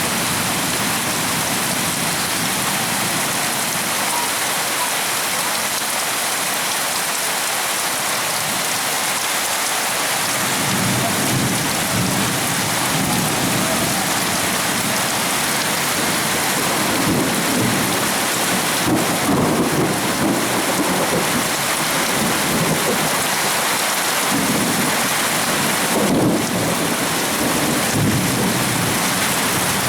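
Heavy rain pouring down steadily, with low rumbles of thunder from about ten seconds in and two short, sharper cracks later on.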